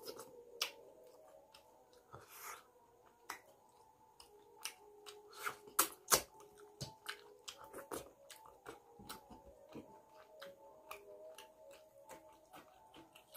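Close-up mouth sounds of a man eating rice and chicken curry with his fingers: many quick wet clicks and smacks of chewing and of sucking food off his fingers, loudest and thickest around the middle.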